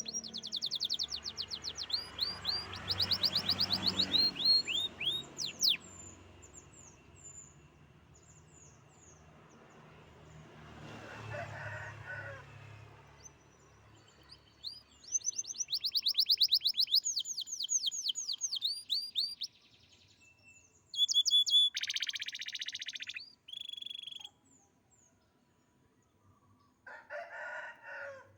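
Domestic canary singing loud, rapid trills of quickly repeated high, downward-sliding notes, broken by pauses and buzzier phrases. A fainter, lower call comes in about eleven seconds in.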